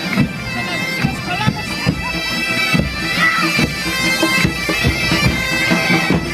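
Wind-instrument music: a steady held drone under a melody line, with irregular low thumps underneath.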